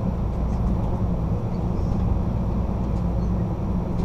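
Steady low rumble of a passenger train rolling along the rails, heard from inside its rear car, with a few faint ticks.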